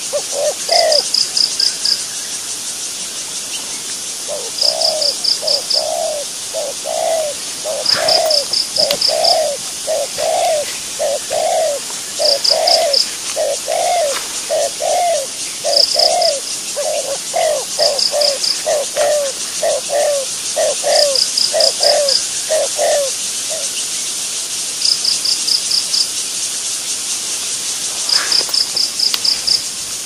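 A bird repeating a short, low note about twice a second, the run breaking off near the end. Behind it, a steady high hiss and short high trills of about five quick pulses every few seconds, like insects chirping.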